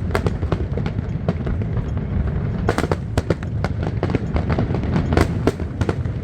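Fireworks display: many sharp bangs of bursting shells in quick succession over a constant low rumble, with the loudest cracks about three seconds in and again a little after five seconds.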